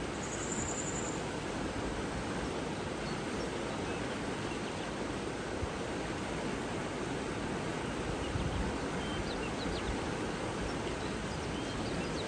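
Steady rushing of running water, with a short high bird trill about a second in and a few faint bird chirps near the end.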